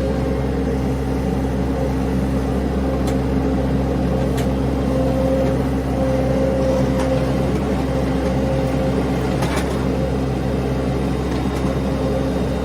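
Mini skid steer engine running steadily, with a few light clicks or knocks over it.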